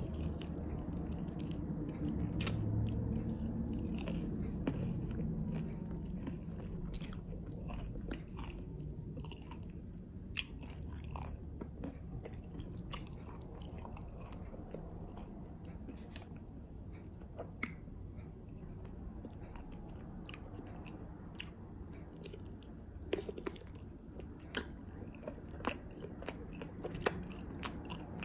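Close-up biting and chewing of a sauce-glazed Korean fried chicken wing: wet mouth sounds with irregular sharp crunches and clicks, a few louder ones near the end.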